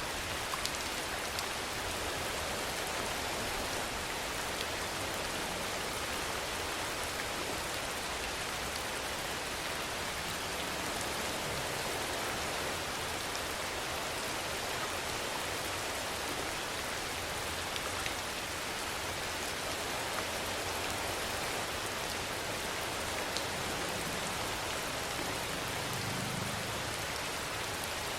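Steady rainfall: a dense, even hiss with a few louder single drops now and then.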